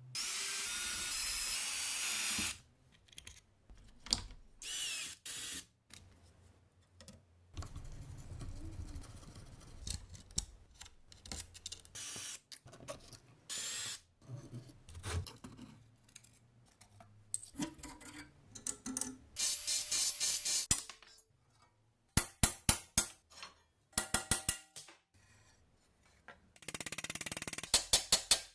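Workshop tool sounds on metal parts. A power tool runs in two bursts of a couple of seconds each, one at the start and one near the end. Between them come shorter handling noises and quick runs of sharp clicks or taps.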